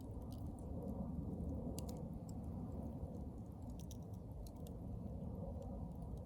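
Wood campfire burning: a steady low rumble of flame with scattered, irregular sharp crackles and pops.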